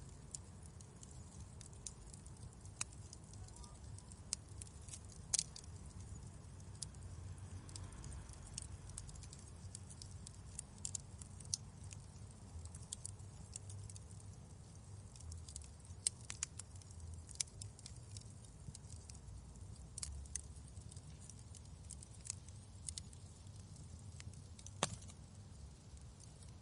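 Wood fire crackling in a fireplace: irregular sharp pops and snaps, the loudest about five seconds in and again near the end, over a faint steady low rumble.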